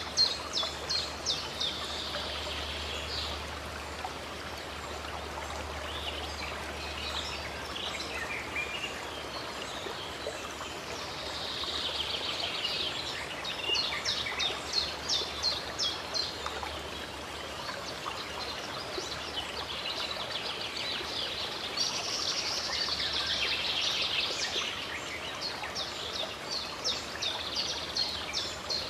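Running stream water under birdsong: songbirds repeat quick trains of short, high chirps in bursts, over the steady rush of the water.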